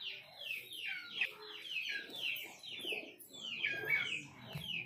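Birds calling: a quick, unbroken run of high, downward-slurred chirps, about four a second, a few of them louder and lower near the end.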